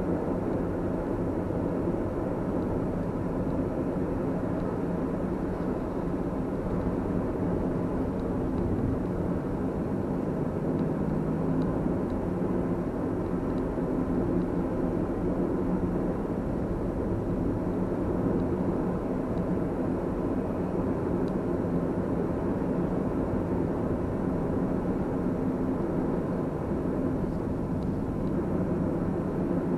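Steady drone of a car driving: engine and tyre road noise, even throughout with no sudden events.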